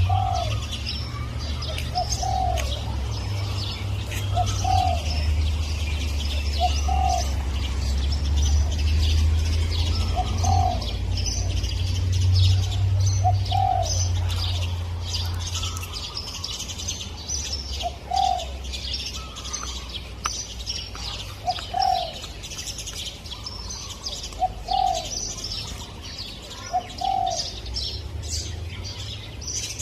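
Spotted dove cooing in short, repeated notes every two to four seconds, with small birds chirping high in the background. A low rumble runs under the first half and fades about halfway through.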